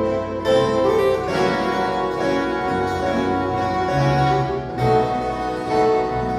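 Ensemble of violas caipira playing, bright plucked steel strings with several notes ringing together.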